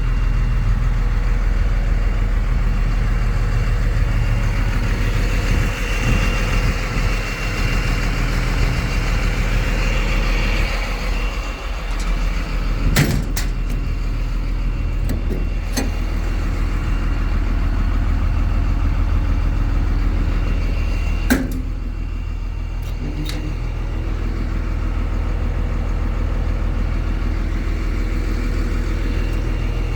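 Diesel engine of a 2000 Ford F650, a 5.9 Cummins, running steadily at a low, even pitch. A few sharp clicks or knocks come through around the middle.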